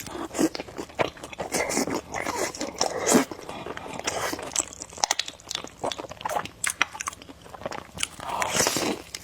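Close-miked mukbang eating of spicy noodles: a busy run of wet biting and chewing sounds with quick mouth clicks.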